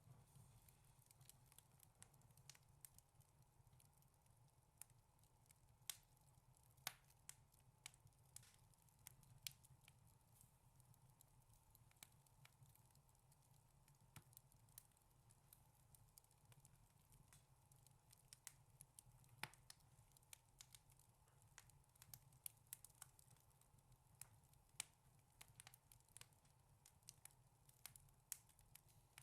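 Wood fire crackling: irregular sharp pops and snaps, a few louder than the rest, over a faint steady low hum.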